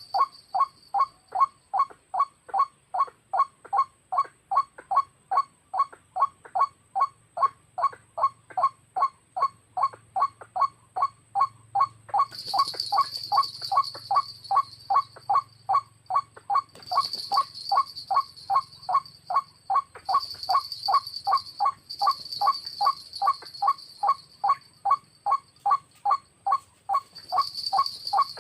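White-breasted waterhen call repeated steadily, about two to three notes a second. A high buzzing comes and goes over it from about halfway through.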